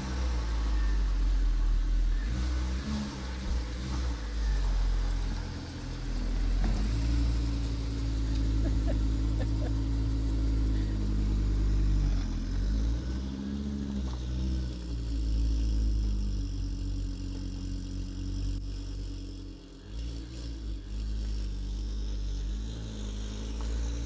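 Volvo V70R's turbocharged inline-five engine running and being revved, its pitch climbing and dropping several times with short lulls in between.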